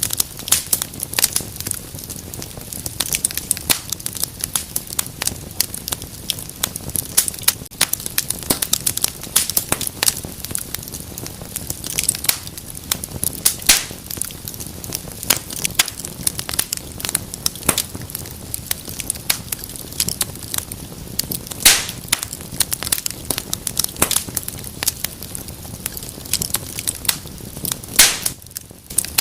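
Wood fire burning in a fireplace, crackling continuously with a steady low rush of flame and irregular sharp pops and snaps, a few of them louder.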